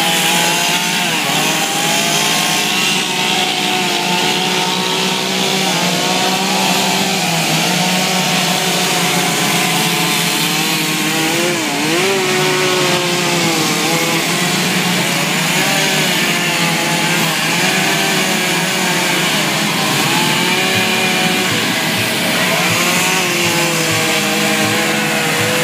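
Chainsaw running continuously as it carves wood, its engine pitch wavering up and down with the cutting.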